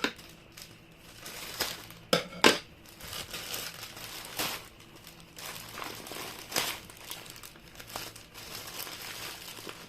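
Plastic packaging crinkling and rustling in the hands as someone struggles to open a tightly wrapped packet, with irregular sharp crackles, the loudest a pair about two seconds in.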